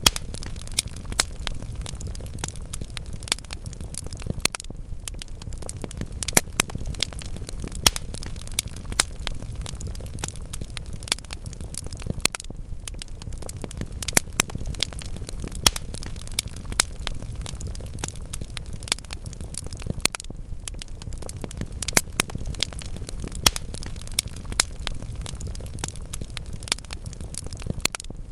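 Wood fire burning in a fireplace: a low steady rumble of the flames with frequent irregular crackles and sharp pops from the burning logs.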